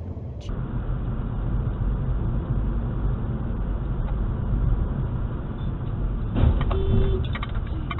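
Steady low rumble of a car driving, with road and engine noise picked up by a dashcam. A few clicks and a short tone come near the end.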